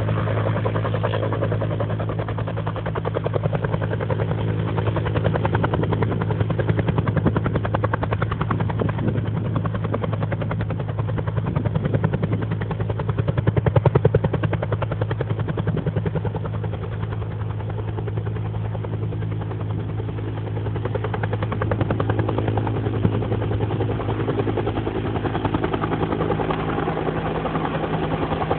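Helicopter running overhead: a steady low engine hum with rapid rotor-blade chop, growing louder about halfway through and again near the end.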